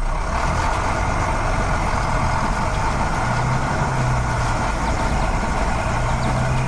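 A large vehicle engine running steadily and loudly.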